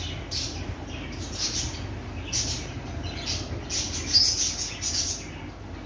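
Birds chirping: a string of short, high chirps, roughly two a second and irregular, the loudest about four seconds in, over a faint steady low hum.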